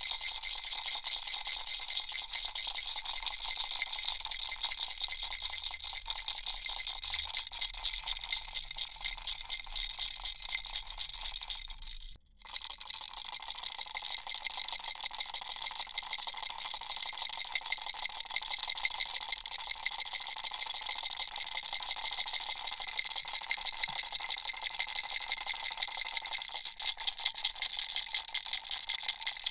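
Baby rattle shaken steadily, its small beads making a fast, continuous fine rattle. There is a brief break about twelve seconds in.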